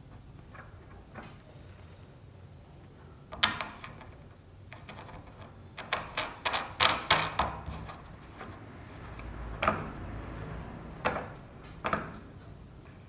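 Plastic parts of a washing machine trolley being pushed and snapped together: a series of sharp clicks and knocks, one loud one about three seconds in, a quick run about halfway, and a few more near the end, as the pieces lock firmly in place.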